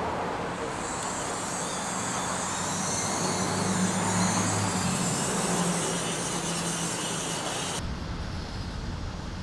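Small electric motors of radio-controlled model construction machinery running, with a steady hum and a high whine that swells and falls; the sound changes abruptly about eight seconds in.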